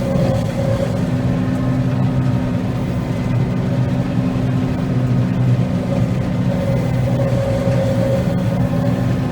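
Combine harvester running steadily while cutting soybeans: an even engine drone with a fainter higher whine that comes and goes.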